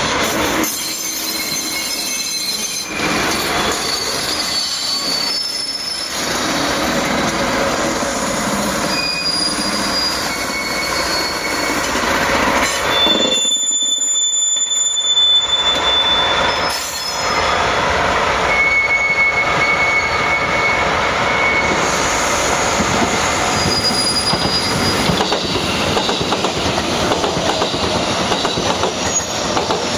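Freight train wagons rolling past on the rails, with the wheels squealing on and off in high steady tones at changing pitches. The longer squeals come a little before halfway and again about two-thirds of the way through.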